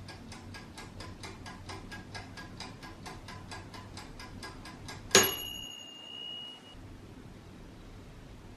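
Mechanical kitchen timer ticking fast and evenly, about six ticks a second. About five seconds in, it runs out with one loud bell ding that rings for about a second and a half, signalling that the time is up.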